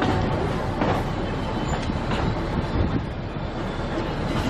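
Narrow gauge train running slowly, its wheels clicking over rail joints about once a second above a steady low rumble of the coaches.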